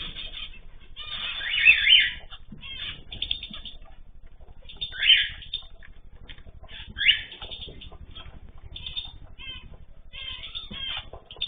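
Pet birds calling and chirping. Four loud, harsh sweeping calls stand out, near the start, at about five seconds and at about seven seconds, with quick short chirps between them.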